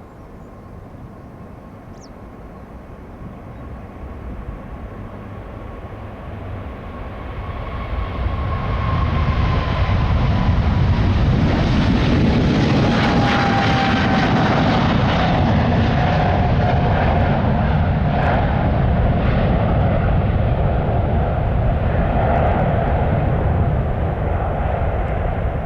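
Boeing 777F freighter's jet engines at takeoff thrust, growing louder over about ten seconds, then loud and steady, with a high whine that slowly falls in pitch. The sound cuts off suddenly at the end.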